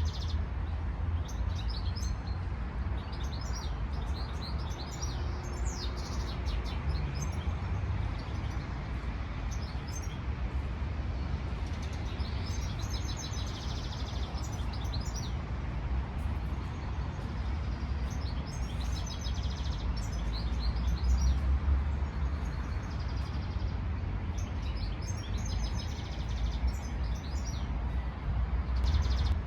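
Songbirds singing, repeated phrases of high chirps and trills, over a steady low rumble of wind.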